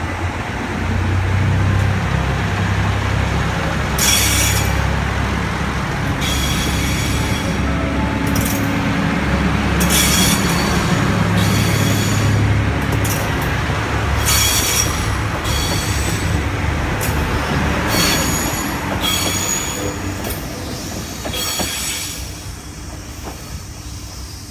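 JR Shikoku 2600 series diesel railcar rolling slowly past, its diesel engine running with a steady low hum while the wheels squeal in short bursts every second or two. The sound fades near the end.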